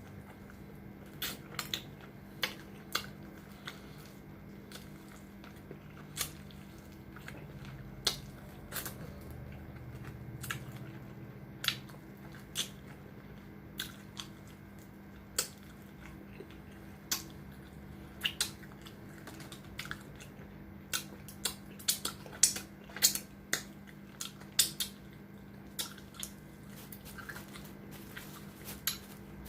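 Close-miked biting and chewing of fried lemon pepper chicken drumettes: irregular sharp crunches and chewing clicks, coming thickest near the end.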